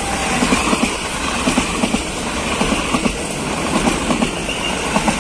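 Electric multiple-unit passenger train passing close by: steady running noise with a repeated clickety-clack of wheels knocking over the rail joints as the cars go by.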